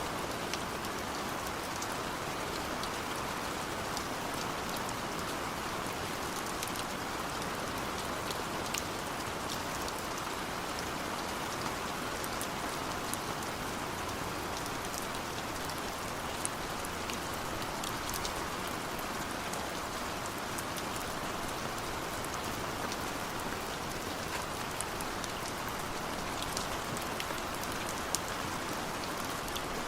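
Steady rain falling, an even hiss with many separate drops ticking sharply throughout.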